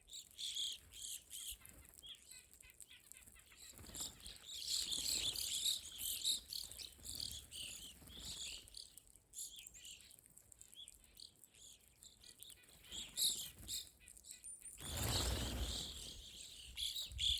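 A flock of evening grosbeaks and chickadees calling at a feeder: many short, overlapping chirps and call notes. A brief rush of noise comes about fifteen seconds in.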